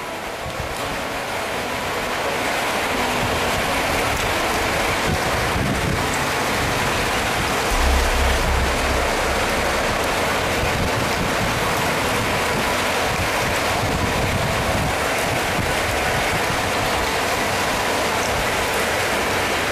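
Rain falling, a steady hiss that builds over the first couple of seconds, with a brief low rumble about eight seconds in.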